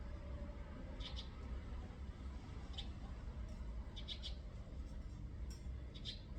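A small bird giving short, high chirps every second or two, over a steady low rumble.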